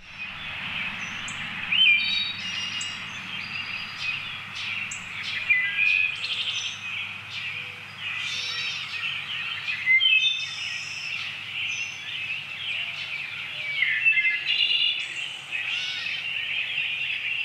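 Birds chirping and calling, many short chirps and whistles over a steady outdoor hiss; the sound starts abruptly.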